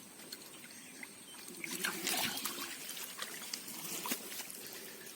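Water trickling and splashing, louder for a moment about two seconds in, with scattered small clicks.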